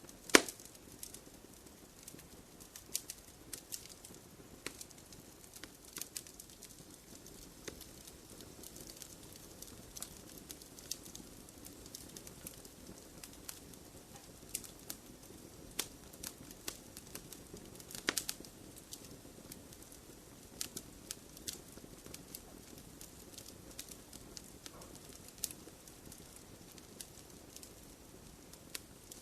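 Wood fire crackling in a fireplace: irregular pops and snaps over a soft steady hiss, with a sharp loud pop just after the start and a small burst of snaps about eighteen seconds in.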